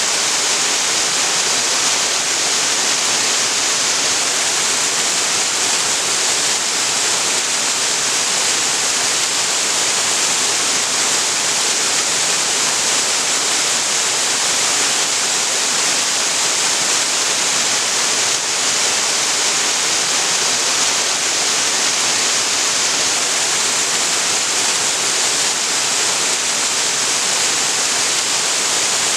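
Waterfall pouring steadily, a constant rushing hiss of falling water with no breaks.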